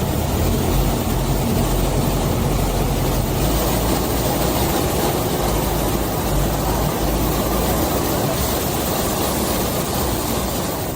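Heavy vehicle engine running steadily under a constant rush of noise.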